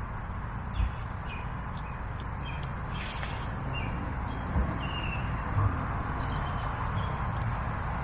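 Small birds giving short, scattered chirps over a steady rushing background and a low rumble, with three soft low thumps.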